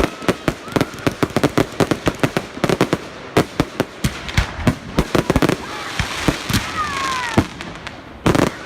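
Fireworks display: rapid volleys of sharp bangs and cracks, then a hissing stretch with a few whistles falling in pitch about seven seconds in, and a louder burst near the end.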